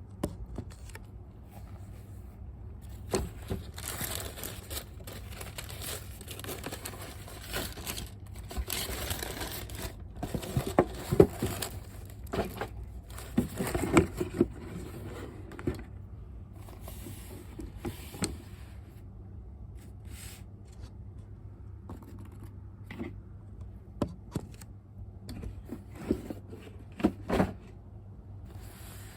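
Hands handling unboxing packaging: rustling and crinkling with scattered light clicks and taps, busiest in the first half and sparser later.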